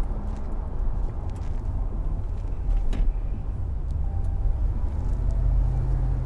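Ford SVT Lightning's supercharged 5.4-litre V8 pulling the truck along, heard from inside the cab with road rumble. A steadier low engine note comes up about five seconds in.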